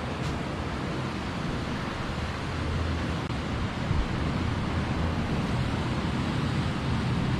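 Steady rushing noise of sea wind and ocean surf, with wind buffeting the microphone and a deep rumble.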